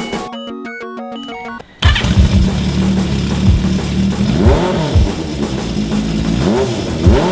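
Honda CB550 inline-four motorcycle engine running after its rebuild, the revs rising and falling in blips two or three times. Electronic music plays briefly before the engine sound cuts in.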